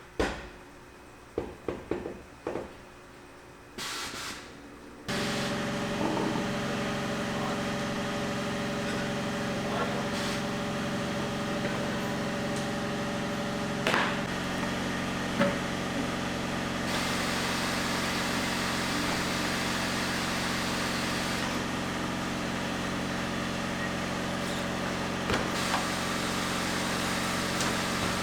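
A few light clicks and knocks, then about five seconds in a steady machine starts running, a constant hum with several steady tones, with an occasional knock over it.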